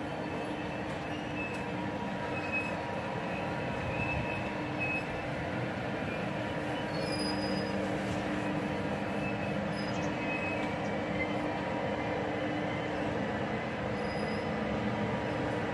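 Double-deck TGV inOui train rolling slowly along the platform: a steady running hum with a few faint, short high wheel squeaks.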